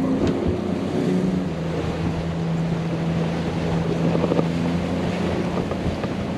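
Motorboat engine running with a steady low hum, over water rushing past the hull and wind buffeting the microphone.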